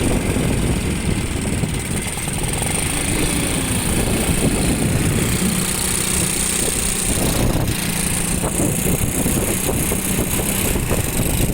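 Motorcycle riding through traffic, its engine running under steady wind noise on the microphone.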